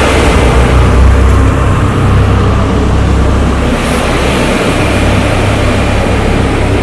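Heavy motor vehicles running on a road construction site: a steady, loud low rumble with an even noise over it.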